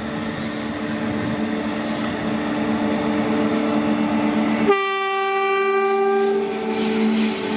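Approaching train, with a steady locomotive hum slowly growing louder, then one train horn blast of about a second and a half near the end.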